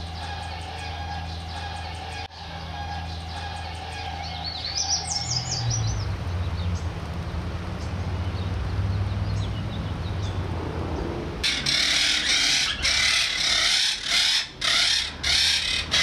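A steady low hum with a short run of high, rising bird chirps, then, from about two-thirds of the way in, a rapid series of loud, harsh bird squawks.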